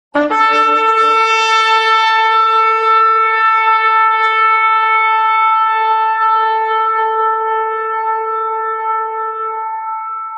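One long, steady horn blast on a single pitch, starting abruptly just after silence and held throughout, slowly growing weaker toward the end.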